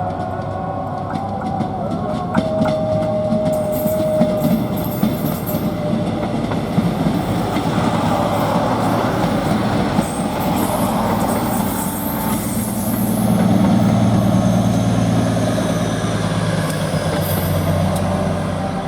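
Prambanan Ekspres diesel multiple unit passing, its wheels clicking over the rail joints. A steady tone is held for the first few seconds, and the diesel engine's low hum swells near the end.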